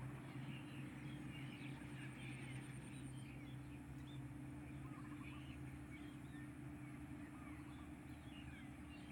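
A faint engine running steadily with a low, even hum, with small birds chirping over it now and then.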